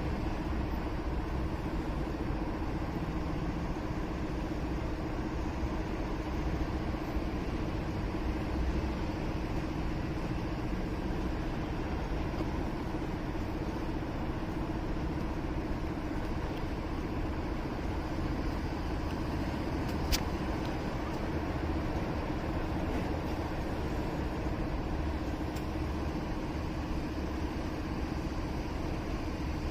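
Motorcycle engine and city traffic noise heard from the bike, steady throughout with a constant hum. One sharp click about two-thirds of the way through.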